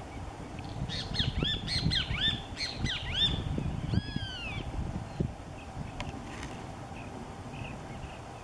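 A bird calling: a quick run of harsh, arched squawking notes starting about a second in, then a few falling notes, before it stops about halfway through.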